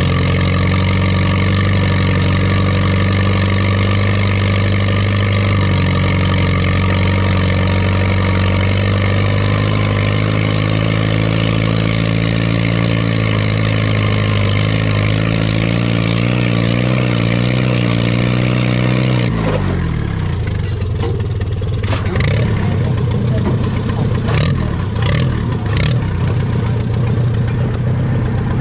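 Antique tractor engine working hard under load in a tractor pull, its note wavering and sagging as it lugs down. About 19 seconds in it drops suddenly to a lower, rougher idle as the pull ends, with a few knocks after.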